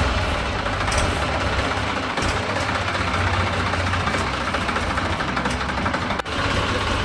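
An engine running steadily at idle, with a brief break just past six seconds in.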